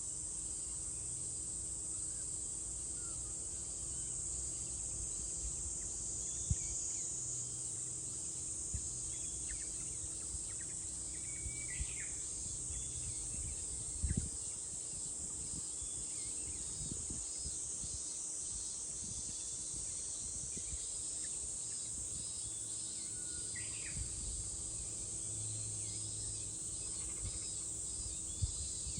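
A steady, high-pitched chorus of summer insects that runs unbroken, with a few short bird chirps scattered through it and several brief soft thumps.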